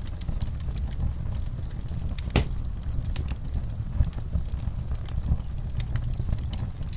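Fire burning in a fireplace: a steady low rumble of flames with scattered crackles and pops, one sharper pop about two and a half seconds in.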